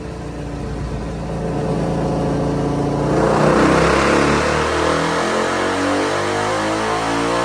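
Suzuki DR-Z400 single-cylinder four-stroke engine with an MRD Z-Pro exhaust, running on a dyno. It holds a low, steady speed for about three seconds, then is opened up for a pull and rises steadily in pitch and loudness.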